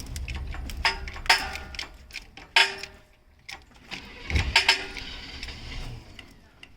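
Irregular sharp metallic clicks and knocks, a few of them briefly ringing, as an engine is slowly raised out of the bay on an engine hoist; the hoist itself pops as it takes the weight.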